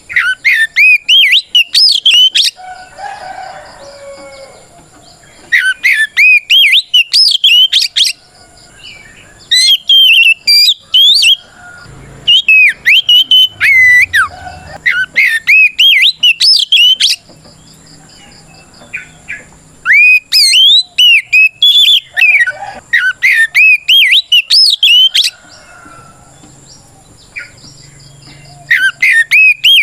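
Oriental magpie-robin singing a loud, fast run of sweeping whistled notes in bouts of a few seconds, about five of them, separated by short pauses. This is the male's full, aggressive song that calls out a rival.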